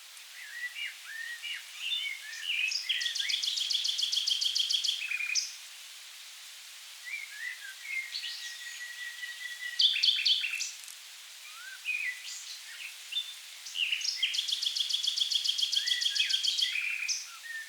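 Common nightingale singing in varied phrases: two long runs of fast repeated notes, one early and one near the end, and a long steady whistled note in the middle, over a steady background hiss.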